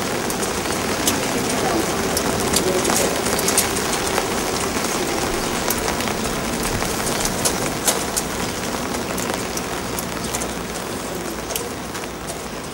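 A steady rain-like patter, a dense hiss dotted with many small sharp ticks, slowly getting quieter toward the end.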